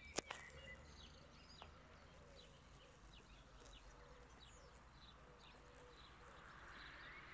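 Faint birdsong: many short, high chirps from birds, with two sharp clicks about a quarter second in.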